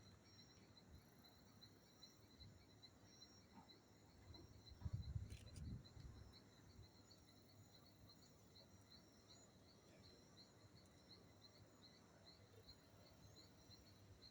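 Faint insect chirping, an even high pulse about three times a second, with a brief low rumble about five seconds in.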